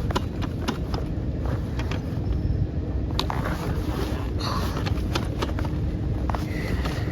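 Dirt bike engine running steadily with a low rumble, with scattered sharp clicks and knocks.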